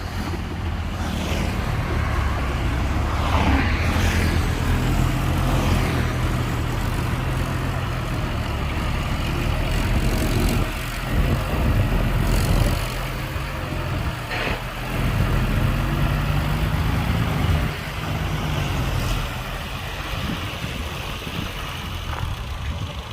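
Heavy diesel engines of a dump truck and bulldozer running, a continuous low drone that swells and eases several times as the machines work.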